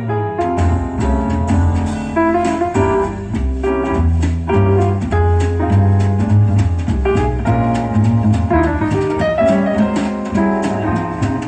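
Piano-led music with bass and drums played through a JBL L16 loudspeaker, with a strong bass line under the piano.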